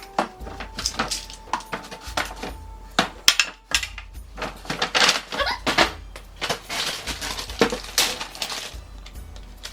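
Repeated clatter and knocks of toiletry bottles and containers being picked up and set down on cabinet shelves, over background music with a steady bass pattern.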